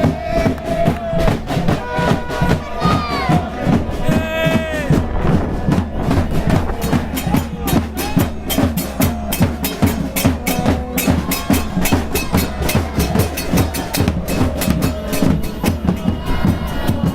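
Bass drums beaten in a fast, steady rhythm, with voices mixed in over the drumming.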